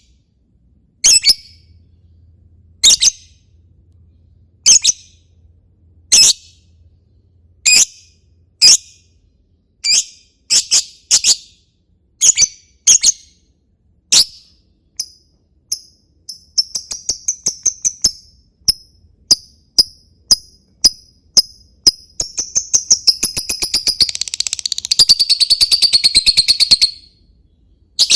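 Lovebird calling in 'ngetik' style: loud, sharp, shrill chirps about every second and a half, which quicken into rapid typing-like clicking about halfway through and then run together into a fast continuous trill that stops just before the end.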